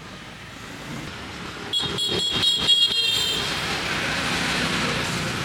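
Street traffic with a motorbike passing close by, its noise swelling over the last couple of seconds. Just before it, a quick run of about six bright, ringing metallic strikes lasting just over a second.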